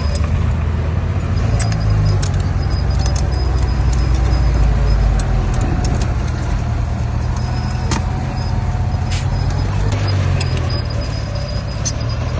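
Bulldozer's diesel engine running steadily under load, with scattered sharp metallic clinks throughout.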